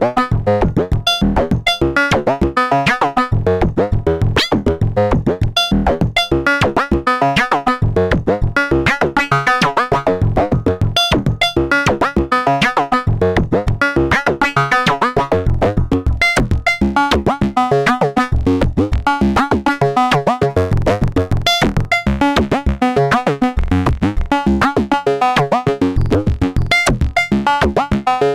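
Eurorack modular synthesizer sequence: a Make Noise DPO oscillator stepped through changing pitches by a Make Noise René sequencer, each note shaped by an Ardcore envelope through a VCA and repeated by delay. It is a fast, unbroken stream of short, plucky synth notes.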